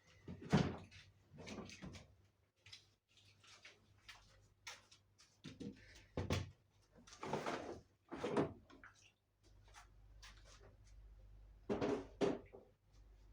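Knocks and clatters from a tumble dryer's door and panels being handled, about seven in all, the loudest about half a second in and two close together near the end.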